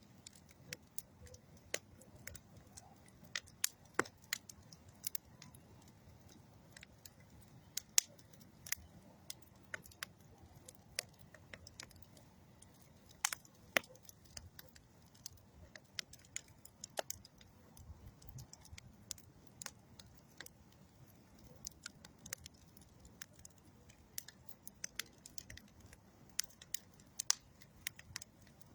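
Wood campfire of old railroad ties and dead tree wood crackling, with irregular sharp pops and snaps over a faint low rumble of burning.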